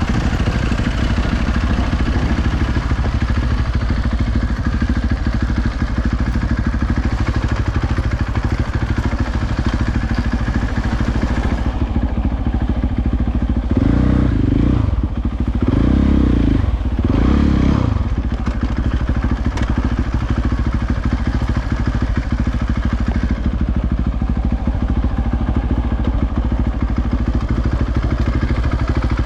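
Dirt bike engine running on a trail ride, with three louder bursts of throttle about halfway through.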